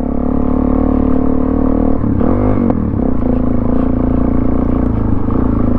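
Suzuki DR-Z400SM single-cylinder four-stroke engine running at a steady throttle while the bike is ridden over gravel, with a brief dip and rise in revs about two seconds in.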